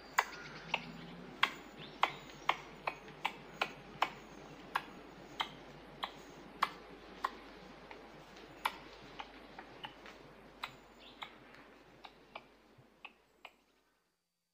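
Eurasian red squirrel making a series of sharp, dry clicks at an irregular pace, about one or two a second, growing sparser and fainter and stopping near the end.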